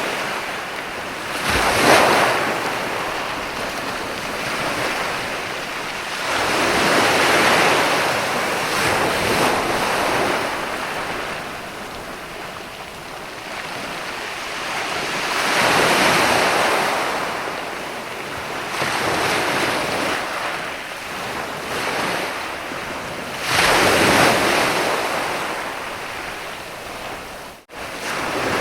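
Ocean surf on a sandy beach: waves breaking and washing up the sand in swells every several seconds, with a hiss of foam between them. The sound drops out for an instant near the end.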